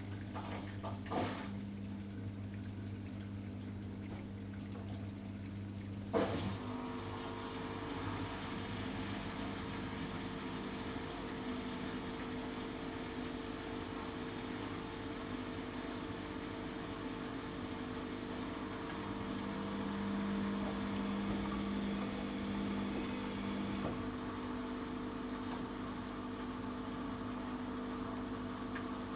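ATLANT 70C1010-02 washing machine running through its cycle: a steady hum, a click about six seconds in, then a different steady machine hum.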